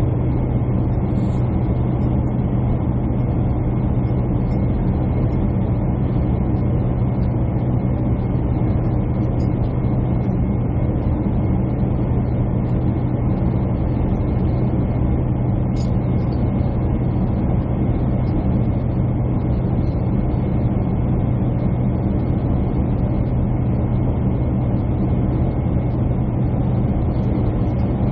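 Jet airliner cabin noise from the window seat: a steady drone of the engines and airflow with a strong low hum and a faint high whine, unchanging throughout.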